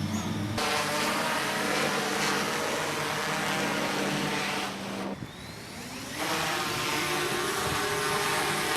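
Multirotor camera drone's propellers whirring in flight: a steady hum with several held tones. It drops away about five seconds in and returns louder about a second later.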